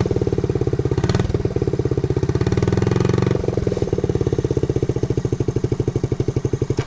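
1969 Honda Z50 mini bike's small single-cylinder four-stroke engine idling with steady, even pulses, picking up in a short rev about two to three seconds in before settling back to idle.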